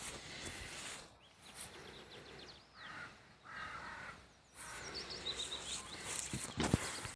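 Wild birds singing and chirping outdoors in short twittering phrases. A dull thump near the end.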